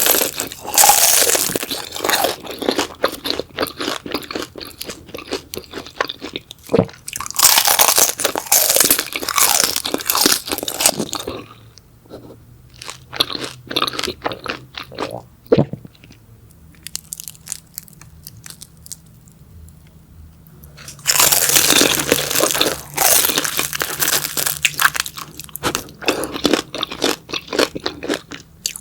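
Close-miked eating sounds: crunchy beef large intestine being bitten and chewed, in loud bouts of crackly crunching with quieter chewing in between.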